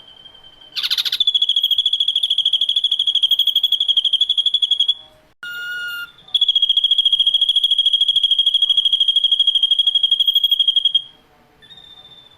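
Ashy drongo song: two long, high, rapidly pulsing trills of about four seconds each, broken in the middle by a brief call on several pitches that starts and stops abruptly. A fainter steady whistle sits on either side.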